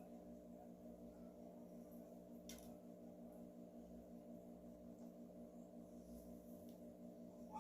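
Near silence with a faint steady hum of several tones, one of them pulsing quickly and regularly, and a light click about two and a half seconds in.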